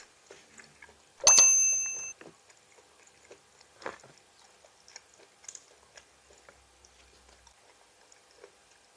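Close-up chewing and crunching of crisp raw vegetables. About a second in, a sharp metallic clink rings briefly at a few clear pitches, then the quieter crunching and small clicks go on.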